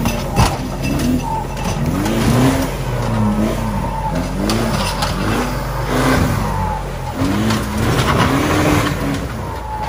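Off-road 4x4 engine revving up and down over and over under throttle, with scattered knocks.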